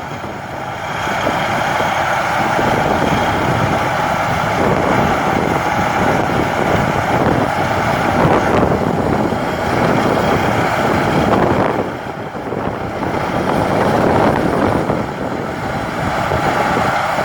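Rice combine harvester running steadily, its engine and threshing machinery making a dense mechanical noise, with a brief dip about twelve seconds in.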